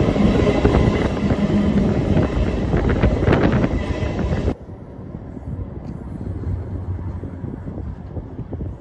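Passenger train running along the rails, a loud steady rumble with a few clacks, which drops abruptly to a much quieter rumble about halfway through.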